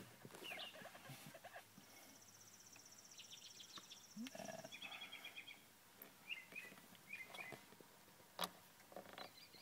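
Near silence with the engine not yet running: faint bird chirps and a fast, high trill, and one sharp click near the end.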